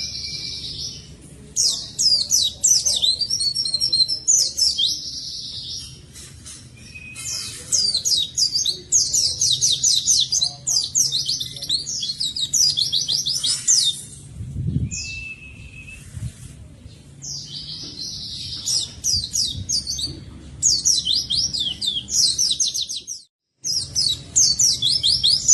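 Pleci (white-eye) singing energetically in repeated bursts of very rapid, high chirping notes, each burst lasting a second or two with short pauses between. It is a lively full-song ("gacor") performance of the kind used to prompt other pleci to sing.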